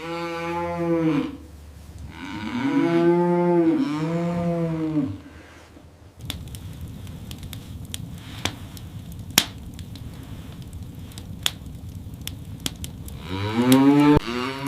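A cow mooing: three long moos in the first five seconds, then another starting near the end. In between, a steady hiss with scattered sharp snapping clicks.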